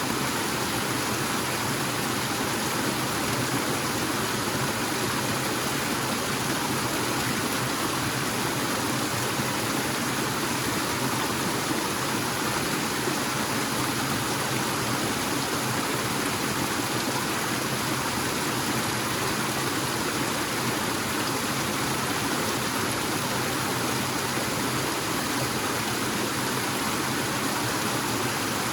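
Waterfall in a forest: water falling and rushing in a steady, unbroken roar of white-noise-like sound.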